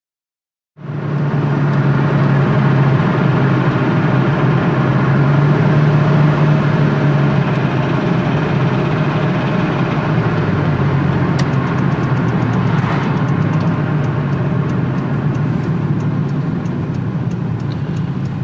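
Toyota Corolla's 4E-FE engine running steadily with a low hum, cutting in abruptly about a second in.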